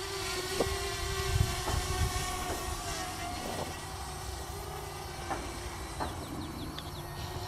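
Parrot Bebop quadcopter's propellers humming at a steady, slightly wavering pitch, with a low rumble underneath and a few faint knocks.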